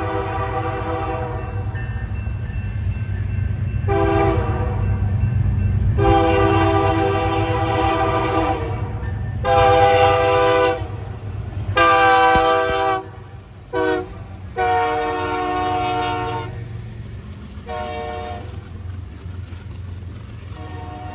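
Diesel locomotive's multi-chime air horn sounding a series of long and short blasts, about eight in all, over the steady low rumble of the train.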